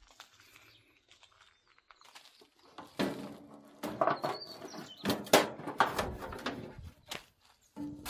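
A quiet first few seconds, then a series of sharp knocks and clattering clanks of metal parts being handled and fitted together while the welding cart is assembled. Birds chirp faintly in the background.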